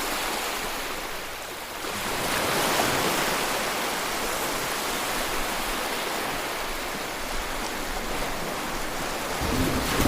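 Kakabeka Falls' water rushing in a steady, even wash of noise, growing a little louder about two seconds in.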